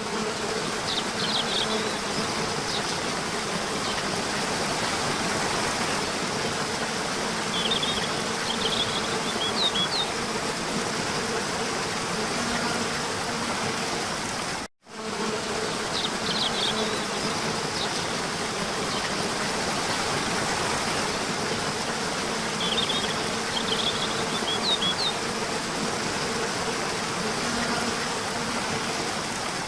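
Steady rush of falling water from a small waterfall, with a few short, high bird chirps in the background. The recording drops out for a moment about halfway and the same stretch plays again.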